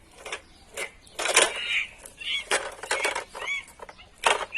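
Small plastic toys clicking and knocking as they are handled and moved about, in a quick irregular series, mixed with a few brief voice-like squeaks.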